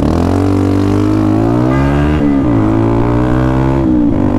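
Motorcycle engine accelerating away from a standstill, revs climbing and then dropping at an upshift about two seconds in, climbing again and dropping at a second upshift near the end.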